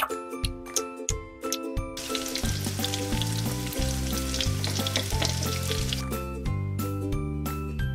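Frying sizzle sound effect laid over a children's background tune with a bass line. The sizzle sets in about two seconds in and dies away near the end, with sharp clicks before it.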